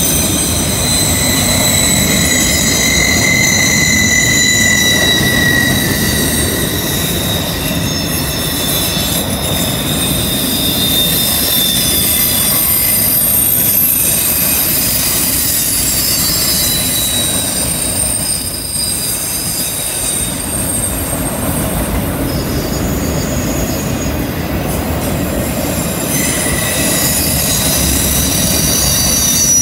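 Autorack freight cars rolling past on a curve: a steady rumble of steel wheels on rail with several high squealing tones that come and go, the wheel flanges grinding against the curved rail.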